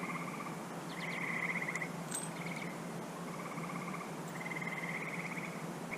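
Calling animals outside: short buzzy trills repeating about once a second, several overlapping, over a steady low hum, with a few faint clicks.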